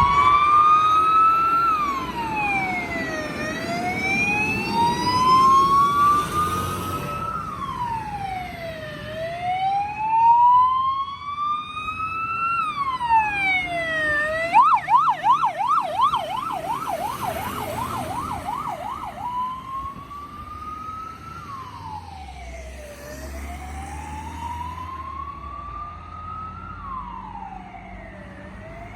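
Fire engine siren on emergency response: a slow wail climbing over a few seconds and dropping quickly, repeating about every five and a half seconds, switched about halfway through to a fast yelp of several up-and-down sweeps a second for about five seconds, then back to the wail. The siren grows fainter toward the end, with a low vehicle rumble underneath.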